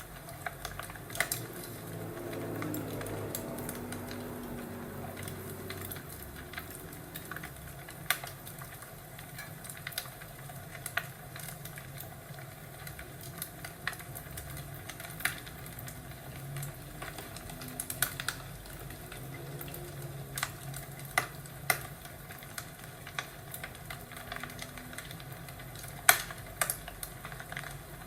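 Crackling wood fire: irregular sharp pops and snaps over a steady low hiss, with a louder snap near the end.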